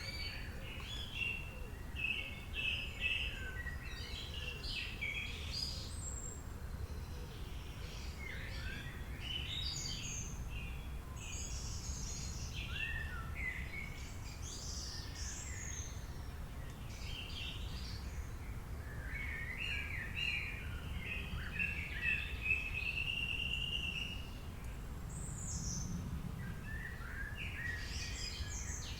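Several birds chirping and calling in short, rapid phrases, with a longer warbling song about twenty seconds in, over a steady low background rumble.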